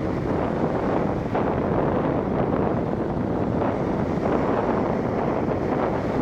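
Stormy sea waves rushing onto the shore in a steady wash of noise, with strong wind buffeting the microphone.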